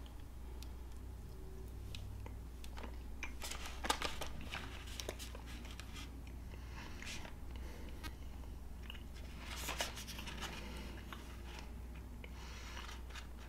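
Quiet chewing of a dark chocolate coconut gluten-free bite, with a few faint scattered crunches, over a low steady hum.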